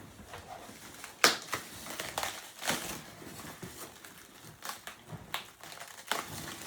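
Packaging being handled and crinkled while a 3D printer is unboxed: irregular rustling and crackling, with a sharper crunch about a second in.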